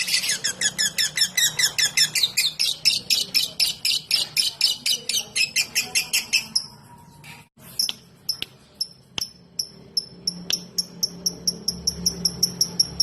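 Lovebird singing in fast repeated high chirps, about five a second, that stop a little past halfway. After a short pause and a few sharp clicks, it goes into a fast run of short high ticks, about four a second: the typing-like 'ngetik' call.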